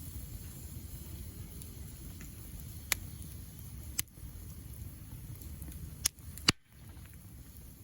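Wood fire burning with a low steady rumble, broken by four sharp crackling pops of the burning wood. The last two come about half a second apart, and the sound briefly dips just after the last one.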